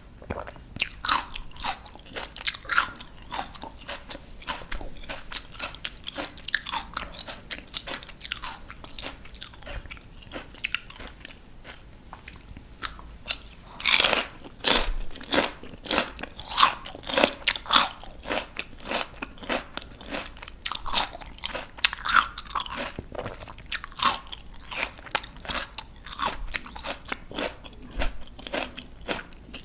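Close-miked crunching and chewing of raw, crisp vegetables: a steady run of wet, crackly crunches, with one loud bite about halfway through followed by heavier chewing.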